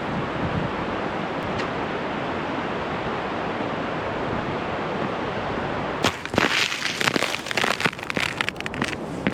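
A river in spate rushing steadily. About six seconds in, irregular crackling and crunching close to the microphone comes in over the rushing water.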